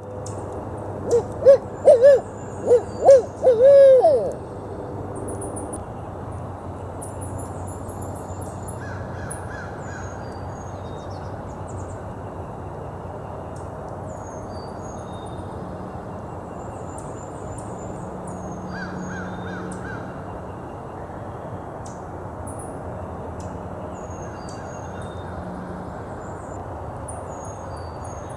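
Owl hooting: a loud series of about six hoots in the first few seconds. After it comes a steady hiss of ambient noise with faint high bird chirps.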